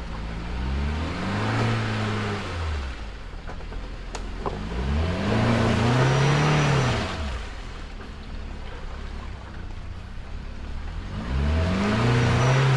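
UAZ Patriot SUV engine revving hard three times as it crawls around an obstacle off-road, each rev rising and then falling away.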